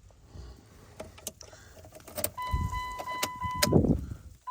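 A few sharp clicks and two dull thumps in a pickup cab, then about halfway a steady, high electronic warning tone from the dash comes on, dropping out briefly near the end, while the truck is readied for a cold start with its engine still off.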